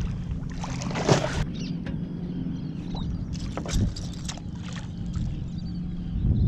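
Water splashing and sloshing against a kayak, in irregular bursts, the strongest about a second in, over a steady low hum.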